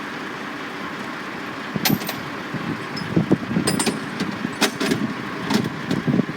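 Construction site noise: a steady rumble of machinery and traffic, with a scatter of sharp clicks and clanks starting about two seconds in.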